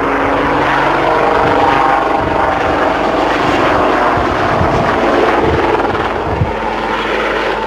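Westland Lynx helicopter flying a display, its rotor and twin turbine engines running loud and steady, with several steady tones in the noise.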